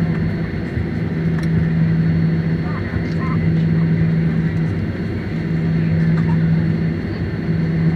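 Boeing 737 cabin noise after landing: the engines and air systems make a steady low hum with an even rush of air over it.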